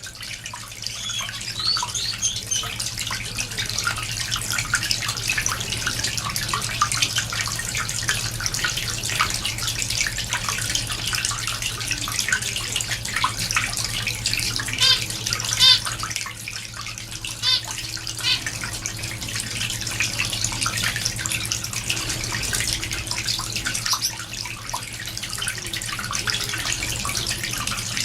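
A cage of small finches (zebra finches, society finches, Gouldian finches) chirping and calling busily, many quick short chirps with a few louder nasal calls in the middle, over a steady low hum.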